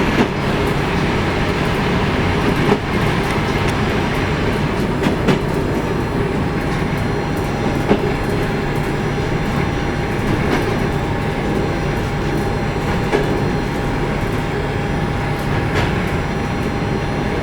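A train running steadily along the track: a continuous rumble with a single sharp click about every two and a half seconds as the wheels pass rail joints.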